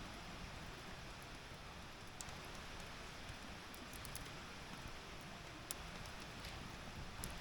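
Wood campfire burning in a fire stand: a soft steady hiss with a few sharp crackling pops from the burning wood.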